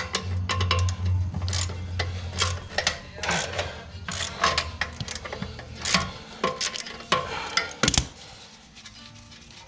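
Hand wrenches and a ratchet working a bolt and nut: irregular metallic clicks and clinks of the tools on the fitting.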